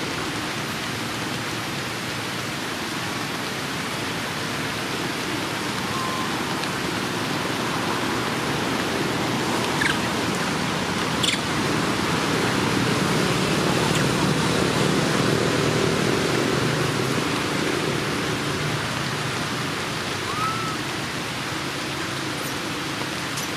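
A steady rushing hiss, with a few faint, short chirps.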